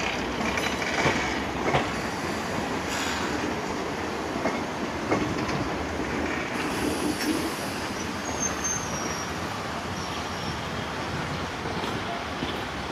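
Passenger train coaches rolling away along the track: a steady rumble and rattle of steel wheels on rail, with a few separate clacks over rail joints in the first five seconds.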